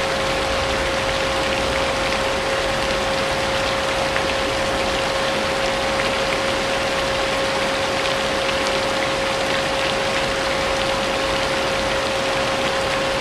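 Vacuum cleaner running steadily with an unchanging motor whine, mixed with continuous steady rain.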